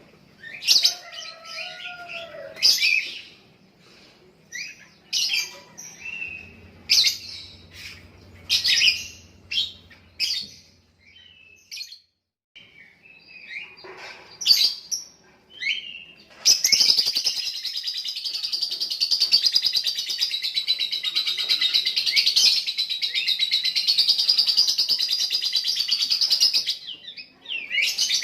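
Lovebird singing: short separate chirps and chatter, then about halfway through one long unbroken fluttering trill lasting about ten seconds. This long trill is the 'ngekek' song that lovebird keepers prize and judge by its length.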